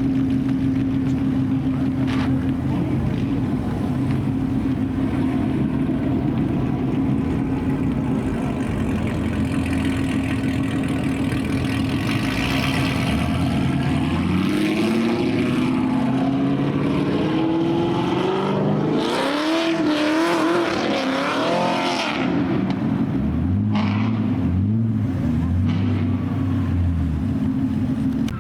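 Car engine idling steadily, then revved up and down several times, with a few short low throttle blips near the end.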